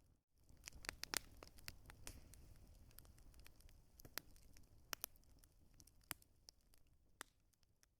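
Wood campfire crackling, with irregular sharp pops and snaps over a low rumble, gradually fading out.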